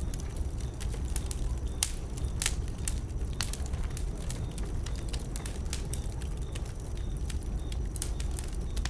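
Burning wood crackling and popping in an open fire, with sharp irregular snaps over a steady low rumble of the flames.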